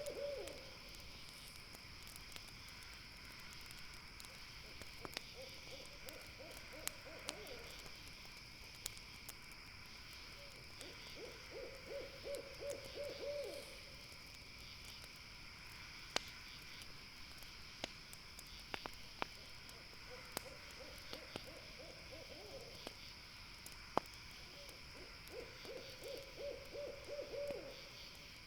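An owl calling in runs of rapid, evenly spaced hoots, each run about two seconds long, four times over. Beneath it a campfire crackles with scattered sharp pops, over a steady high-pitched drone.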